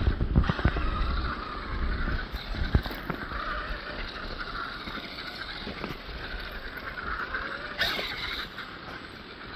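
Electric motor and gears of a Vanquish H10 Optic RC crawler whining as it drives, the pitch wavering up and down with the throttle. Wind rumbles on the microphone, mostly in the first couple of seconds.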